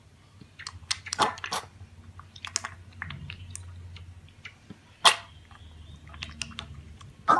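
An animal chewing: irregular crunching clicks, with a loud sharp click about five seconds in and another near the end.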